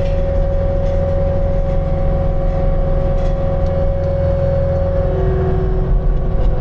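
Construction machine's engine running steadily under load, with a held whine that drops to a lower pitch about five seconds in.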